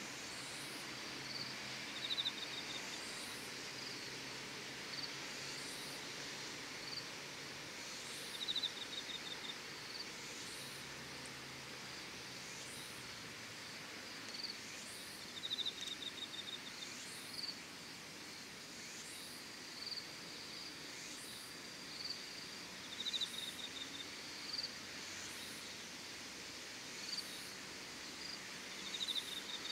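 Insects chirping at dusk: a short, rapid pulsed trill repeats about every seven seconds, with thin high rising chirps about every second and a half, over a steady hiss.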